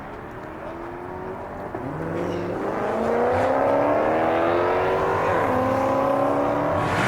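Car engine revving up: the note climbs and grows loud over about a second, holds high, dips briefly past the middle, then holds again.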